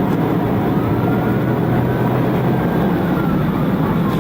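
Steady vehicle engine and road noise at speed, with a siren faintly wailing slowly up and down over it.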